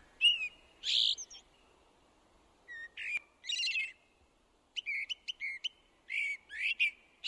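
A songbird singing short, varied phrases of high chirps and whistles, separated by brief pauses.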